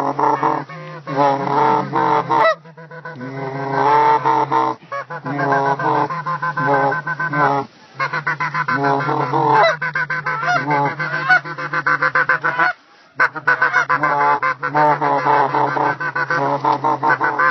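Geese honking, many loud honks in quick overlapping succession, with brief pauses a few times.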